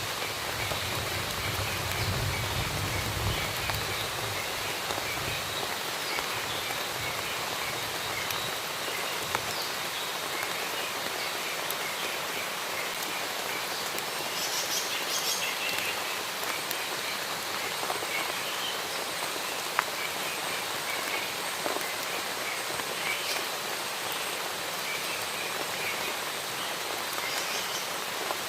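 Steady rain falling, with birds chirping here and there through it, including a brighter burst of calls about halfway through. A low rumble sits under the rain for the first few seconds.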